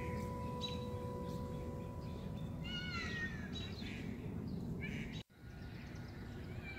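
Songbirds chirping outdoors, short calls and a few falling whistled notes, over a steady low background rumble. The sound drops out briefly about five seconds in.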